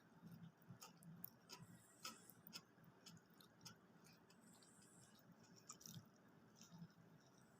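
Faint close-up chewing of food, with irregular soft, wet mouth clicks.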